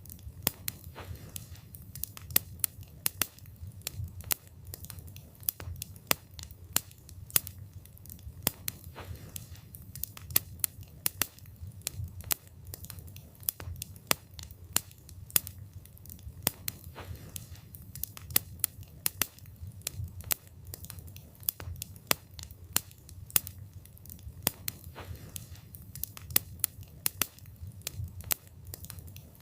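Wood fire burning with a low rumble of flames and frequent sharp crackles and pops from the burning wood, irregular, several a second.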